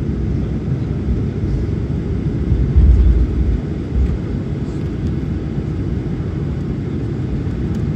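Cabin noise of a Boeing 737-900ER taxiing after landing: a steady low rumble from its CFM56 engines and rolling wheels, heard from inside the cabin, with a couple of heavier low bumps about three and four seconds in.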